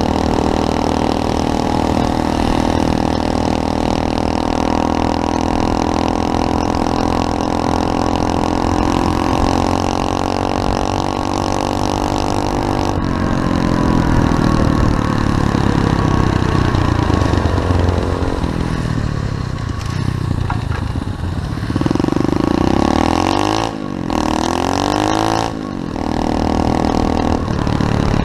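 SSR 125cc pit bike engine running, its pitch fairly steady for the first half, then revving up and down in rising and falling sweeps, with two brief sharp dips in sound near the end.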